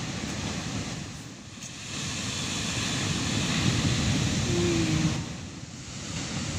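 Sea surf breaking and rushing on the beach, a wave swelling up about two seconds in and easing off near the end, with wind buffeting the microphone.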